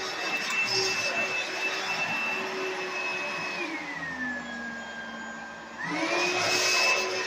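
Modern Oreck upright vacuum cleaner running with a steady high motor whine. About halfway through, the motor's pitch sinks and stays low for about two seconds, then climbs quickly back to full speed.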